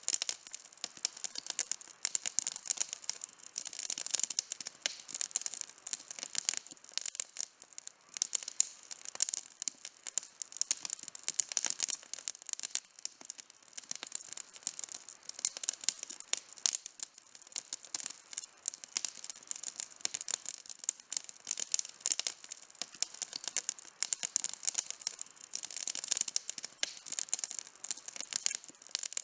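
Wood fire burning with dense, irregular crackling and snapping pops, many small sharp cracks per second and no low rumble.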